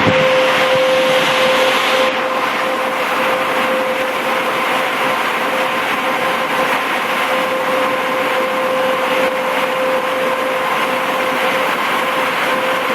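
Automatic car wash machinery running: a loud, steady rushing with a constant hum through it.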